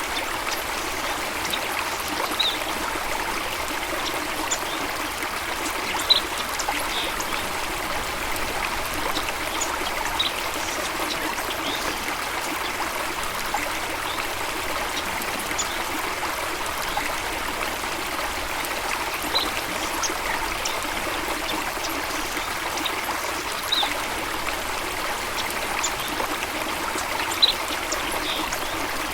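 Flowing stream water splashing and trickling steadily, with a few brief high-pitched sounds now and then.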